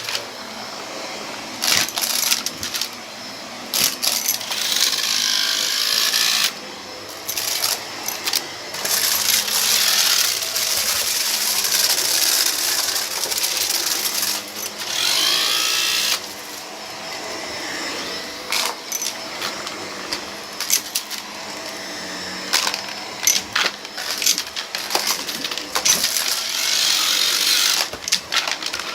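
Vacuum cleaner running over a rug and sucking up a scattered debris mix, with many sharp clicks and rattles as the bits are pulled in.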